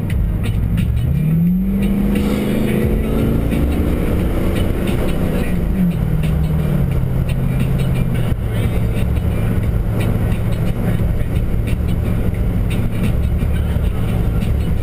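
Stock exhaust of a Jeep Grand Cherokee WJ's 4.7 L High Output V8, heard from inside the cabin while driving and gaining speed at low revs: a steady low drone. Its pitch rises about a second in and drops back around six seconds in.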